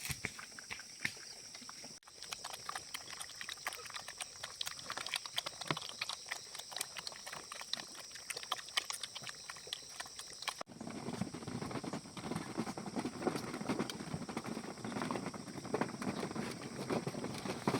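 Farm animals, with many quick irregular clicks and rustles. The sound changes abruptly twice, about two and about eleven seconds in, and is fuller and lower after the second change.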